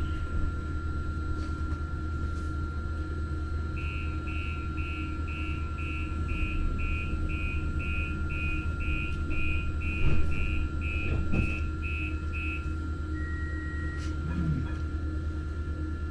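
Light-rail car's door warning beeps, an even run of short high beeps at about two a second for some nine seconds, ending with one short held tone. Under them runs the steady low hum of the Muni Metro train.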